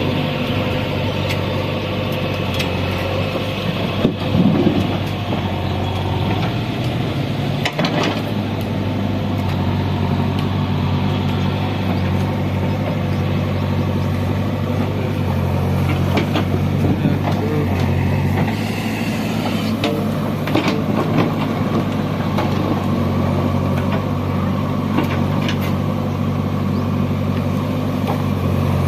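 Diesel engine of a JCB 3DX backhoe loader running steadily under work, with a few short knocks and clanks now and then from the machine as it loads.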